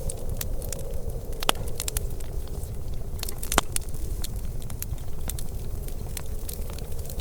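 Wood fire crackling, with irregular sharp pops, two louder ones about a second and a half and three and a half seconds in, over a steady low rumble.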